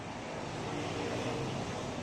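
Gas welding torch flame burning with a steady hissing rush.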